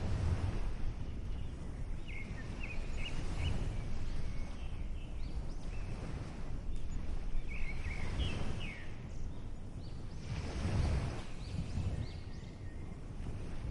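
Ocean waves washing in slow swells every few seconds, with small birds chirping in short, high phrases over them.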